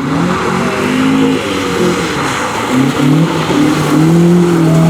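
Rally car engine revving hard, its pitch rising and falling repeatedly as the driver works the throttle, growing slightly louder toward the end, over a hiss of tyre and road noise.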